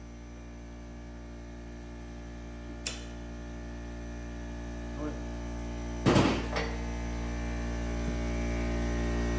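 Air-hydraulic bottle jack on a shop press running with a steady hum that grows louder, pressing a leaf spring bushing. There is a sharp click about three seconds in and a louder crack about six seconds in.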